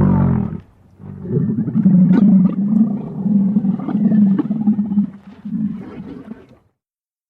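An animal's loud growling call: a short roar at the start, then a long, pulsing growl of about five seconds that fades out.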